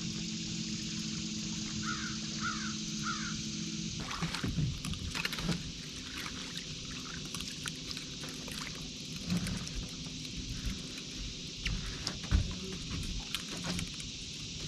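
A crow cawing three times in quick succession about two seconds in, over a steady low hum that stops at about four seconds. Scattered knocks and clatter follow.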